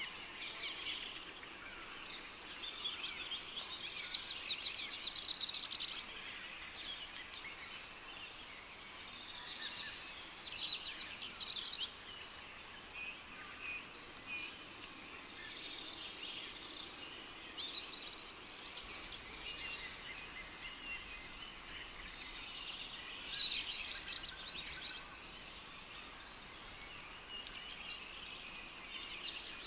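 Rainforest ambience: a cricket chirping high and steady, about two chirps a second, with birds calling and trilling on and off over it.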